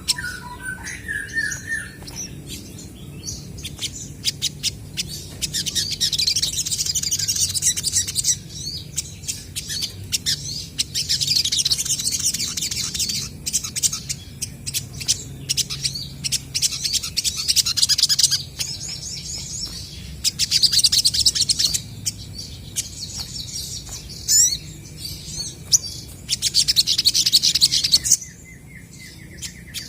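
Olive-backed sunbirds calling and answering each other: bursts of fast, very high-pitched twittering a few seconds long, about five of them, with sharp ticking calls in between. A short run of lower chirps comes at the start.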